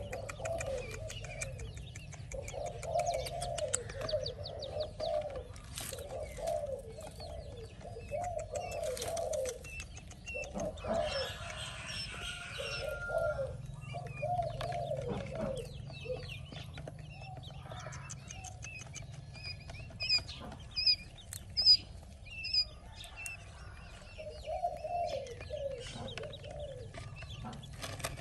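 A bird cooing in repeated low, warbling phrases through much of the clip. Newly hatched chicks give short high peeps about two-thirds of the way in, with a few light clicks and knocks of handling.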